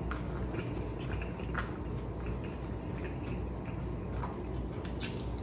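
A person chewing a mouthful of food close to the microphone, with a few light clicks of wooden chopsticks against a plastic bento tray; the sharpest click comes near the end. A steady low hum runs underneath.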